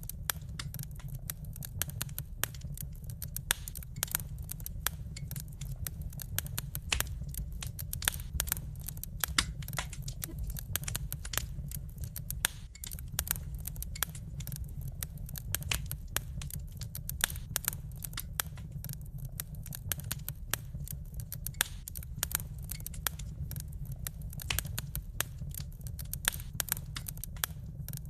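Wood fire in a fireplace crackling and popping: many irregular sharp pops, several a second, over a steady low rumble.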